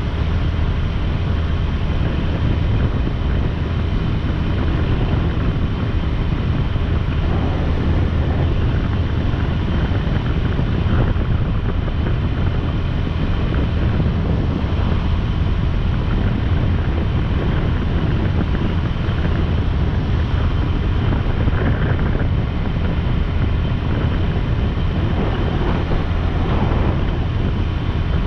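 Motorcycle riding at a steady speed: the engine and road noise run as a steady low drone under heavy wind rushing over the microphone.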